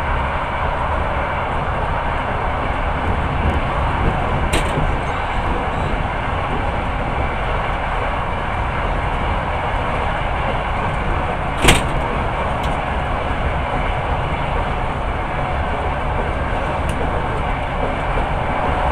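Passenger train running, a steady rumble and rail noise heard from inside the carriage, with two sharp clicks, the louder one about twelve seconds in.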